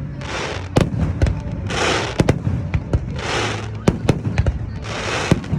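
Aerial fireworks going off in quick succession: many sharp bangs of shells bursting, with stretches of hissing about every second and a half.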